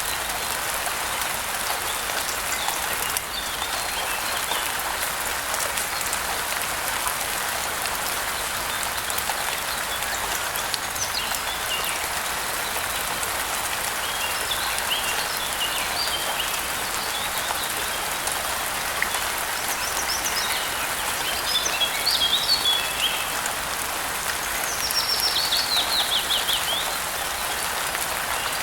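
Steady rain falling, with birds chirping over it, more often in the second half, including a quick run of falling notes near the end.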